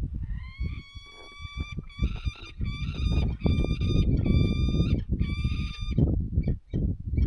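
Hungry nestling birds begging at the nest: a long, steady, nasal call broken into several stretches over about six seconds, then a quick run of short clipped notes near the end. A loud low rumble lies underneath.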